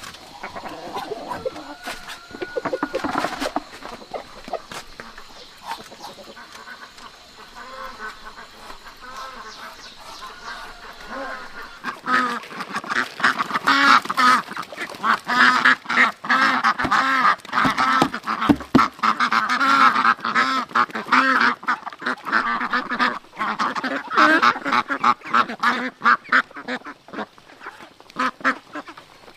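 A flock of ducks quacking, many calls overlapping. The calls become much louder and denser about twelve seconds in and stay busy until near the end.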